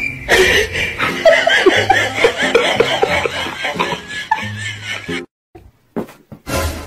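People laughing and chuckling in many short, repeated bursts, cutting off suddenly about five seconds in.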